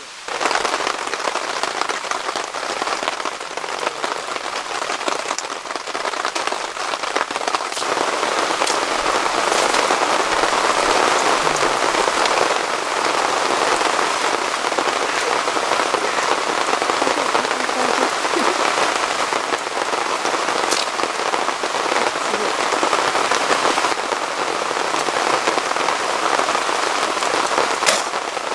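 Heavy rain falling steadily, getting a little louder about a third of the way in, with a couple of sharp clicks near the end.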